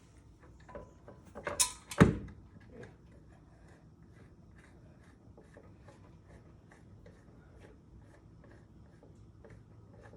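A scrape and then a heavy knock about two seconds in as the rear shock absorber is lifted and worked into place, followed by faint light clicks of handled parts.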